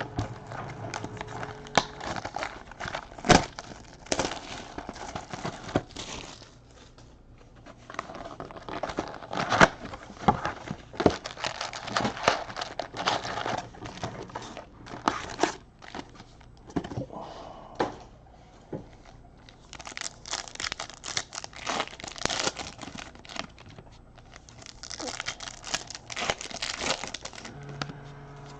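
Foil trading card pack wrappers being torn open and crinkled by hand, in several bouts of irregular crackling with short quieter pauses between them.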